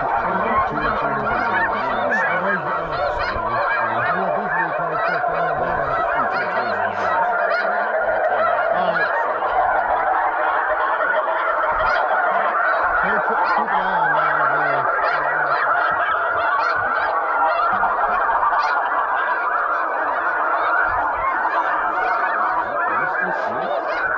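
A large flock of geese calling, a continuous din of many overlapping honks with no break.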